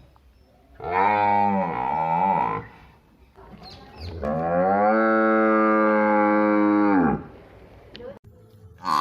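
Two long moos from a village buffalo or cow: the first, about a second in, wavers down and up in pitch; the second, starting about four seconds in, is longer and held steady for about three seconds.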